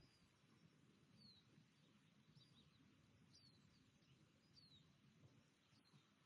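Faint birdsong: short high chirps that fall in pitch, repeated about once a second, over a low, steady outdoor background hiss.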